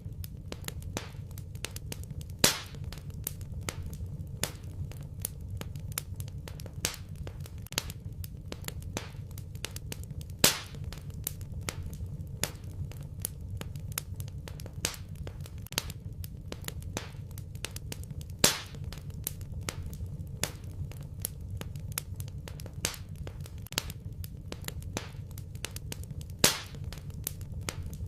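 Wood fire in a fireplace crackling steadily over a low rumble, with dense small snaps and a louder sharp pop about every eight seconds.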